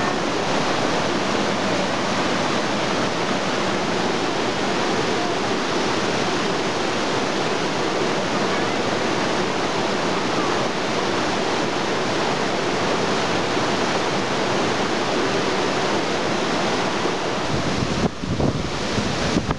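Waterfall close by: a loud, steady rush of falling water. Near the end, uneven low buffeting on the microphone joins it.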